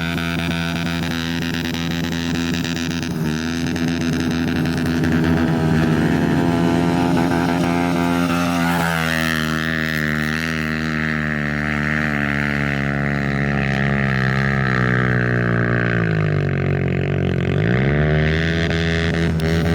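Pit bike's small single-cylinder engine held at high revs under load, a steady buzzing note; about three quarters through the revs sag and then climb back up.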